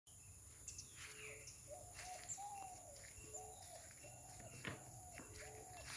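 Faint bird calls: a bird repeating short, arched notes in a series of about eight, with a few faint high chirps.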